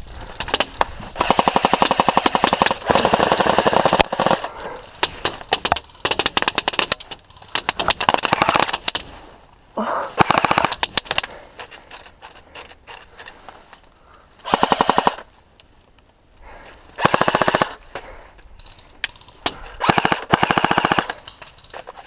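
Airsoft guns firing rapid full-auto bursts, a quick even rattle of shots, several times over with short pauses between bursts.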